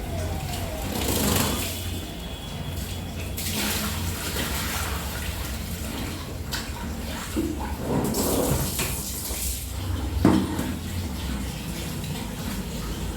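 Water sloshing and splashing in several short bouts as laundry is soaked in hot water, with a single knock about ten seconds in.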